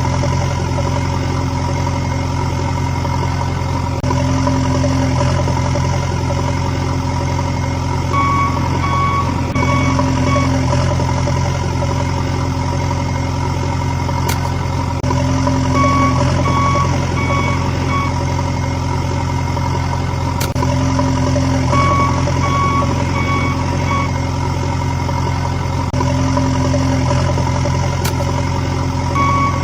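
Steady engine drone of a backhoe loader, with a reversing alarm beeping in short runs of several beeps about every six to seven seconds.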